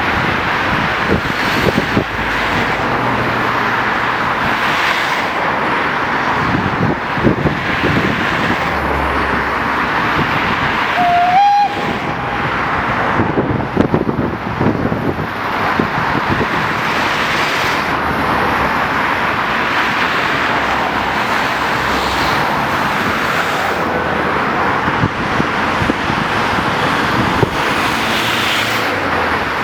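Steady, heavy road-traffic noise from a busy major road, with a brief high toot about eleven seconds in.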